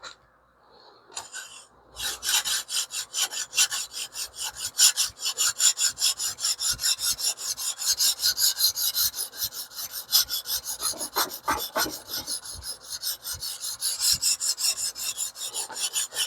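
Coarse 150-grit sharpening stone on a TS Prof Kadet Pro guided sharpening system, stroked quickly back and forth along a small cleaver's edge. A rapid, steady scraping rasp of about four to five strokes a second starts about two seconds in.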